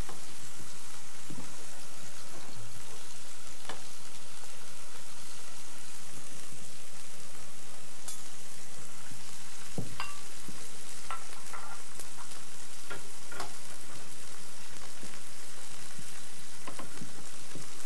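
Swiss chard crepes sizzling steadily in hot oil in a nonstick frying pan. A slotted metal spatula and spoon turn them, clicking now and then against the pan.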